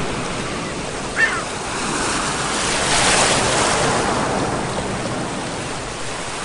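Sea waves washing in steadily, one wave swelling to its loudest about three seconds in. A short high chirp sounds about a second in.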